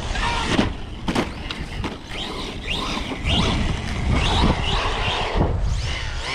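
Electric motors of radio-controlled cars whining, repeatedly rising and falling in pitch as the cars accelerate and brake, over a low rumble.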